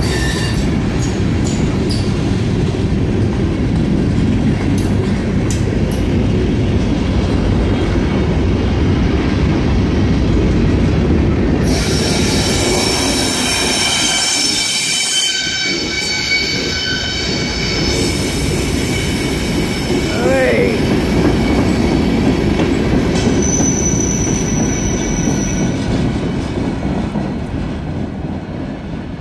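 Freight cars rolling past with a steady rumble of steel wheels on rail. About halfway through, the wheels begin to squeal, a high ringing squeal of several tones together that stops a few seconds before the end. The rumble then fades as the last cars go by.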